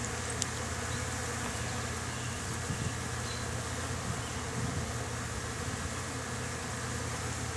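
Honeybees buzzing around an open hive, a steady unbroken hum.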